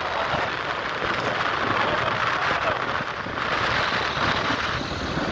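Steady rushing wind noise on the microphone of a motorcycle in motion, with road and engine noise blended underneath.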